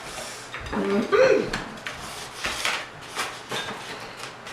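Knocks, clicks and rubbing of food containers and dishes being handled and put away, with a short voiced exclamation about a second in.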